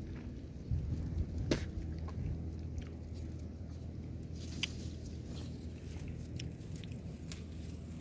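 A person chewing and biting soft white currants: scattered wet mouth clicks, the loudest about one and a half seconds in, over a steady low hum.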